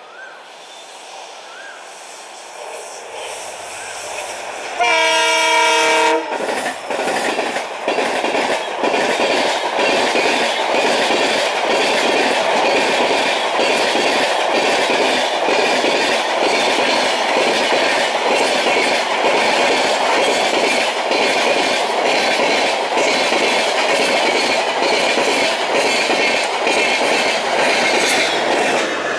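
Passenger express train approaching and passing close by. Its locomotive sounds a multi-note horn for about a second, about five seconds in. Then the coaches' wheels clatter rhythmically over the rail joints at speed.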